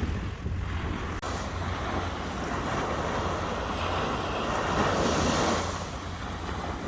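Sea waves washing onto the shore, with wind rumbling on the microphone. The surf swells louder for a few seconds in the middle, then eases.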